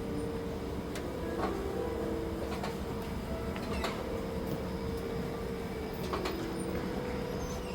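Steady low mechanical hum with a few held tones, broken by scattered light clicks and knocks.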